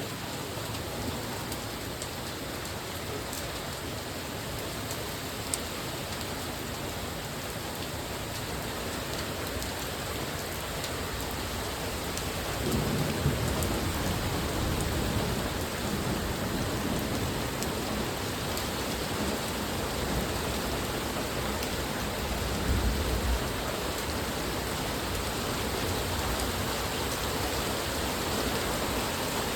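Steady rain falling and pattering on surfaces. Low thunder rumbles roll in partway through and again later.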